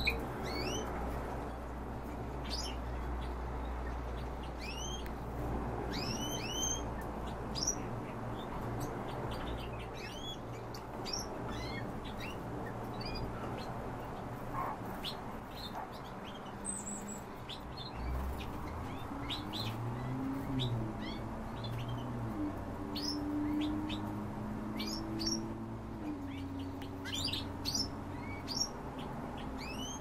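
Caged songbirds chirping: many short, high notes, scattered and often several in quick succession.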